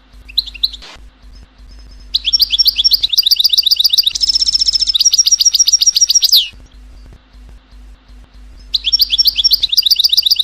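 European goldfinch song: fast, high twittering trills. A short bit comes about half a second in, a long burst runs from about 2 to 6.5 seconds, and another starts near 9 seconds, over a faint steady hum.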